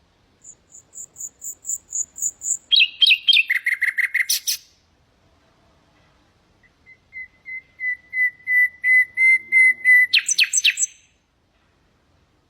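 Common nightingale singing two phrases. Each is a run of repeated whistled notes that grows louder: the first high-pitched, breaking into a fast trill about three seconds in; the second lower and longer, ending in a quick rattling flourish about ten seconds in.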